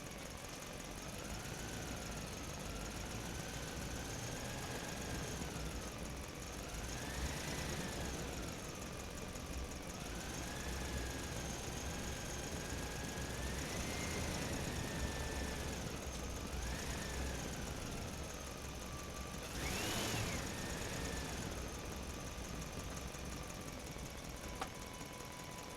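Small electric motor of a toy fire truck whining, its pitch rising and falling again and again as it speeds up and slows, over a low steady rumble. It swells briefly louder and higher about twenty seconds in.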